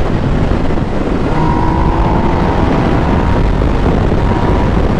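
Riding a motorcycle at speed: steady wind rushing over the microphone with the engine and road noise underneath, and a faint steady whine for a few seconds in the middle.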